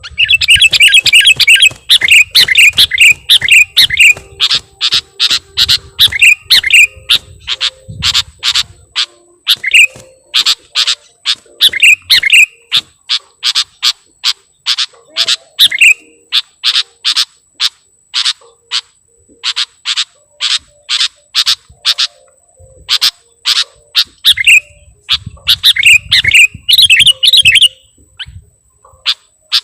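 Sooty-headed bulbul calling: a rapid, continuous run of short sharp chirps, several a second, broken up by bubbling warbled phrases, with a short pause near the end.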